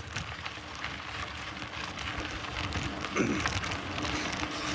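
Mountain bike rolling along a dirt trail: a steady crackling rush of the tyres on dirt and gravel.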